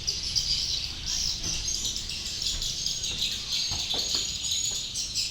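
Swiftlets twittering: a dense, unbroken chatter of high chirps, with a few faint knocks about four seconds in.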